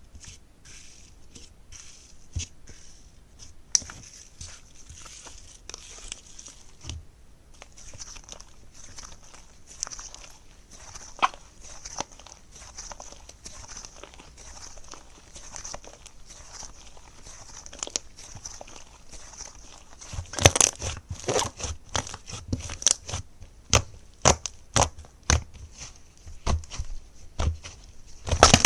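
Slime being handled by hand: scattered sticky clicks and crackles over a faint steady hiss. They turn denser and louder about two-thirds of the way through.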